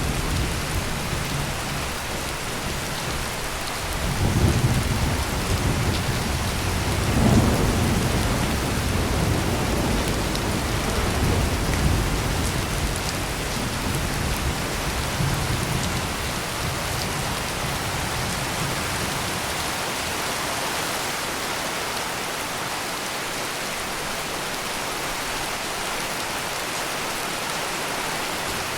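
Heavy rain pouring steadily, with rolling thunder rumbling low about 4 and 7 seconds in and fading away over the next several seconds.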